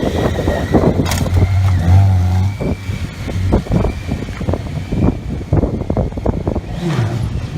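Motorcycle engine running at low revs, its steady low note fading out a couple of seconds in, with wind gusting on the microphone throughout and another engine note falling in pitch near the end.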